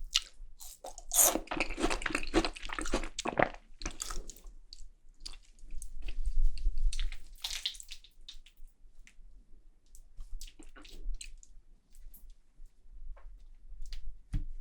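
Close-miked chewing of seasoned raw beef tartare (yukhoe): wet, crackly mouth sounds, thick for the first few seconds, another run of chewing in the middle, then scattered small clicks and smacks.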